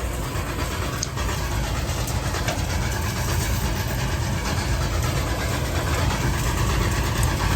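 A John Deere 730 diesel tractor's two-cylinder engine running steadily, with the PTO-driven corn picker-sheller turning over.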